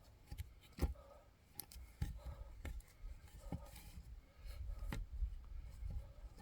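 Firewood being split by hand with an axe: several separate, sharp wooden knocks and clatters, with a low rumble in the second half.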